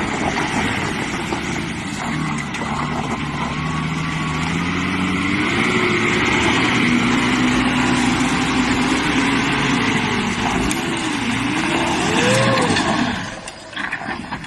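A vehicle engine running over steady road noise, its pitch rising, wavering and falling as it revs, before the sound drops away near the end.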